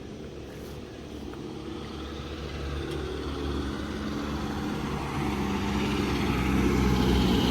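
Motor vehicle approaching along the road, its engine growing steadily louder as it comes closer.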